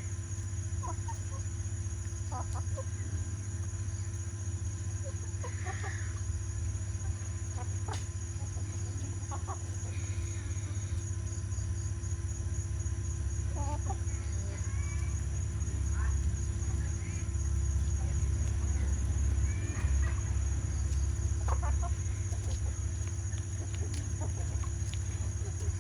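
Chickens clucking now and then, short separate calls scattered through, over a steady low rumble that swells about two-thirds of the way in.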